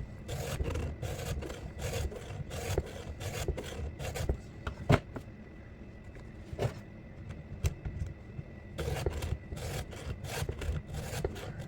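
Hand file rasping across the cutting teeth of a Stihl MS 462 C's saw chain during sharpening, quick repeated strokes about three a second. The strokes stop for a few seconds midway, with a few single clicks, then start again.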